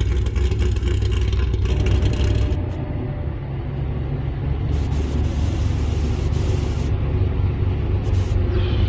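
C6 Corvette's LS3 6.2-litre V8 running at low speed, a steady low rumble.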